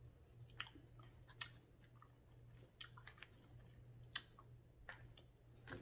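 Faint close-up mouth sounds of someone chewing food, with scattered small clicks and smacks.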